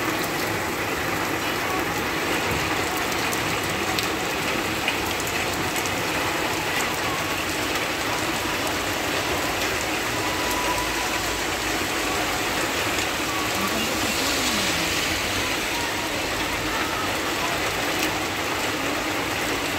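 Heavy rain pouring steadily, a dense, even hiss of rain on the road and the tree's leaves.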